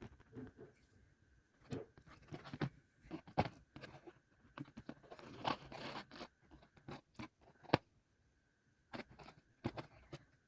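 Irregular crunching and scraping close to the microphone, in short uneven bursts with a brief quiet spell near the end, over a faint steady high tone.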